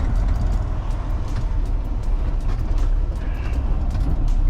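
Diesel engine of a day-cab semi-truck running with a steady low rumble, heard from inside the cab.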